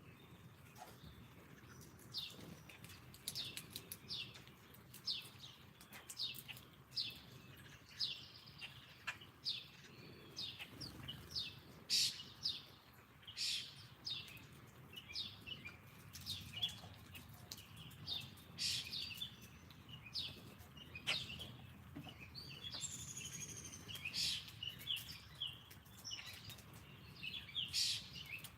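Several small songbirds chirping: many short, sharp chirps in quick, overlapping succession, with a higher, buzzier call about three quarters of the way through.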